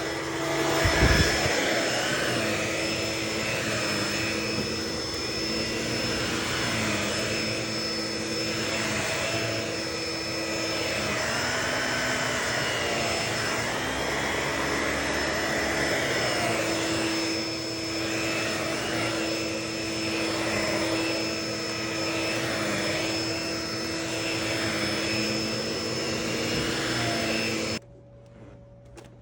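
Vacuum cleaner running with a steady motor whine; the pitch wavers up and down as the airflow changes. There is a thump about a second in, and the sound cuts off abruptly near the end.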